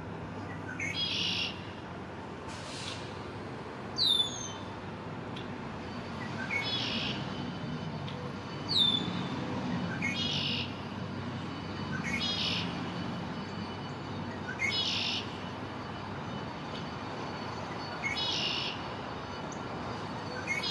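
First-spring male red-winged blackbird singing its 'ooka-lee' song over and over, a short lead-in note and a buzzy trill every two to four seconds. Twice, about four and nine seconds in, it gives a loud, shrill whistle that falls in pitch.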